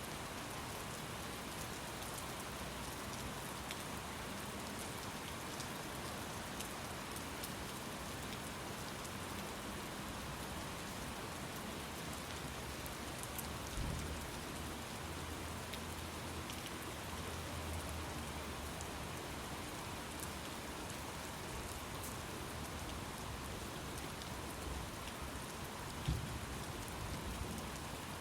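Steady rainfall, with a low rumble of distant thunder that starts suddenly about halfway through and fades over a few seconds, and a short low thump near the end.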